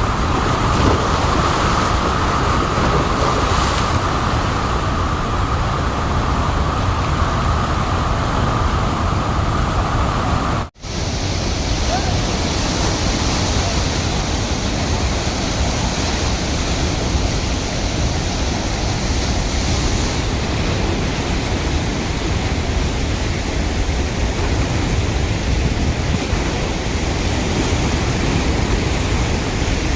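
Water released through open dam spillway gates, rushing in a loud, steady wash of noise. About eleven seconds in, the sound cuts out for an instant and resumes with a slightly different tone.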